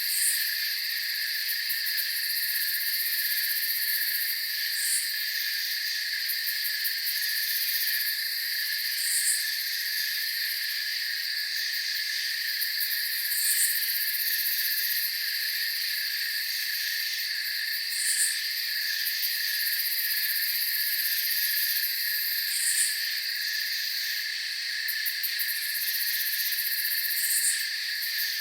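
Night-time chorus of crickets trilling steadily in several overlapping pitches, with a brief high chirp repeating about every four and a half seconds.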